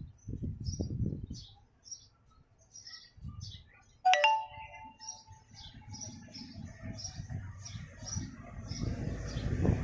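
A bird chirping over and over, short high chirps about twice a second. About four seconds in comes a sudden loud sharp knock with a brief ringing tone, and a low rumble builds up in the second half.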